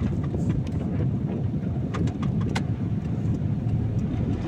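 Steady low rumble of a car driving on a rain-wet road, engine and tyre noise heard from inside the cabin, with a few short sharp ticks about two seconds in.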